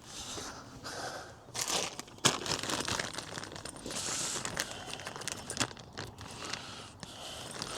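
Small plastic bag of parts crinkling and rustling as it is handled and rummaged through, with a few sharp clicks.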